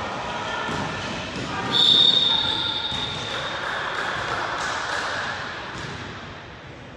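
A long, steady, high whistle blast just under two seconds in, lasting about a second. Around it are voices across the gym and basketballs bouncing on a hardwood court, in an echoing gym.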